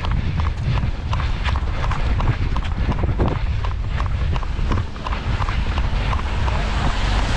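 A runner's footfalls at about three steps a second, with wind rumbling on the microphone.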